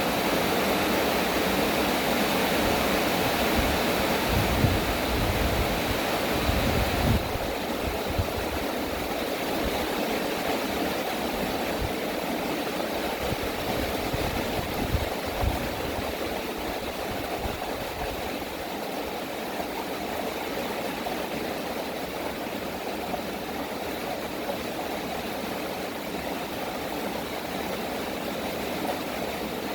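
Steady heavy rain hissing, with low thunder rumbling a few seconds in and again briefly around the middle. About seven seconds in, the hiss turns slightly duller and quieter.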